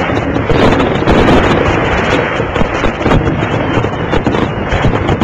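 Fireworks going off in quick succession, a dense rumble of bursts and crackles, with wind buffeting the microphone.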